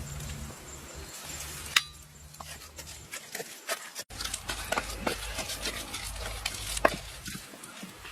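Cooking-utensil sounds: scattered light knocks, clicks and scrapes, with one sharp click about two seconds in.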